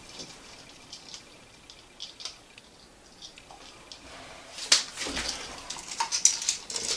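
Light clicks and knocks of plastic toilet parts being handled as a new flush-valve flapper is fitted. The clicks are sparse at first, then a sharp click comes about five seconds in, followed by a quick run of clicks.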